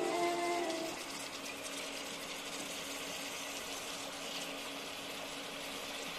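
Oil sizzling and crackling in a pot as raw chicken pieces go into the fried onion-tomato masala, over a steady low hum. A few notes of background music fade out about a second in.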